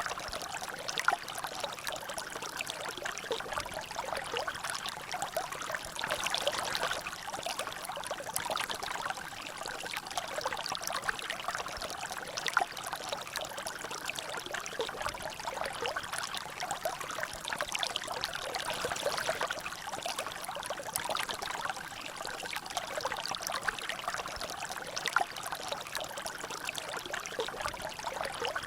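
Water trickling and dripping steadily in a small natural drainage channel, a continuous flow dotted with many small splashes and a few louder drops.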